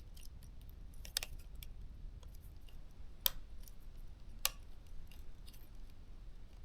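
Light ticks and small clicks of tweezers and plastic parts being handled while a small connector is pressed back onto the drone's circuit board, with three sharper clicks about one, three and four and a half seconds in.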